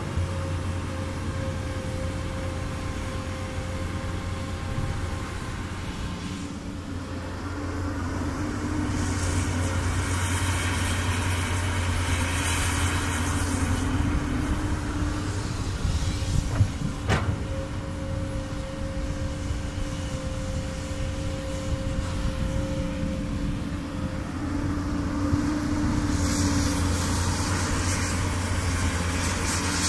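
Komatsu PC200 hydraulic excavator's diesel engine running steadily with a steady whine. The engine note swells twice as it works under load, roughly a third of the way in and again near the end, and there is one sharp click a little past halfway.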